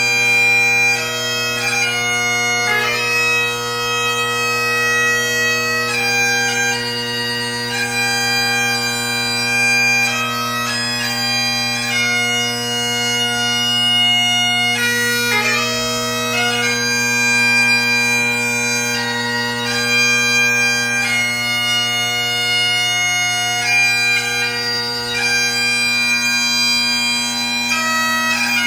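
Great Highland bagpipe playing a competition tune: the chanter's melody moves in stepped notes with quick grace-note ornaments over the unbroken bass and tenor drones.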